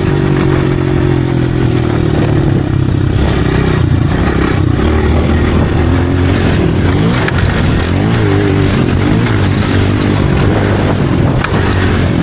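Motocross dirt bike engine running under throttle, its pitch rising and falling several times as the bike speeds up and slows.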